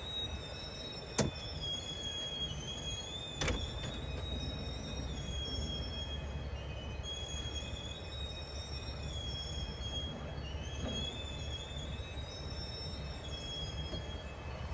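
Freight cars rolling slowly past, heard from inside a car: a steady low rumble with a thin, wavering high-pitched squeal from the wheels that holds throughout. Two sharp clicks, about one and three and a half seconds in.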